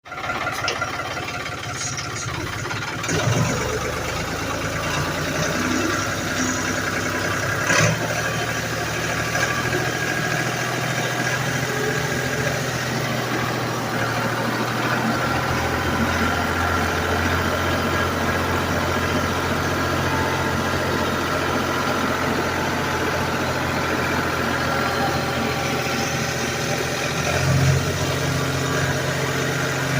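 Tractor engine running steadily, its note shifting about halfway through, with two sharp knocks in the first eight seconds and another bump near the end.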